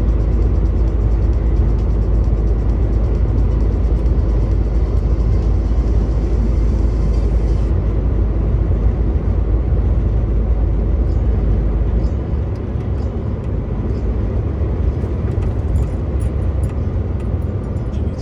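Truck engine and road noise heard from inside the cab: a steady, deep rumble. About twelve seconds in, the deepest part of the rumble drops away and the sound gets a little quieter.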